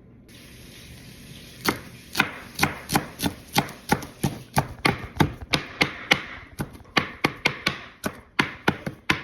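Knife chopping food on a cutting board: a steady run of sharp strokes, about three a second, starting about a second and a half in.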